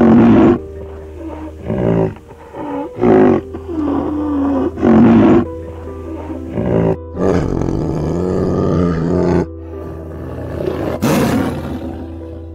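A large animal's roaring calls, about seven separate loud calls with bending pitch, laid over background music.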